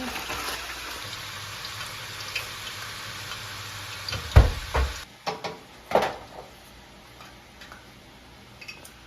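Steady hissing kitchen noise, from a frying pan or a running tap, that stops suddenly about five seconds in, just after two heavy thumps. A few sharp knocks and clicks of cookware follow.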